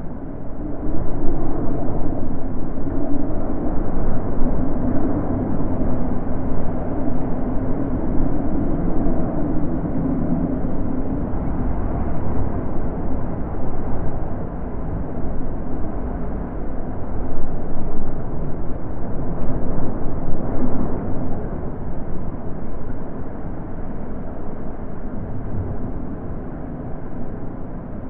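Wind blowing: a low rushing noise that swells and eases in gusts.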